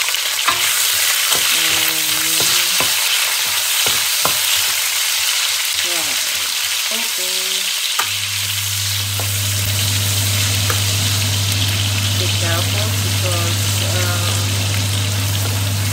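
Tomato and onion pieces sizzling in hot oil in a stainless steel wok, with a wooden spatula knocking and scraping against the pan as they are stirred. About eight seconds in, a steady low hum starts and carries on under the sizzle.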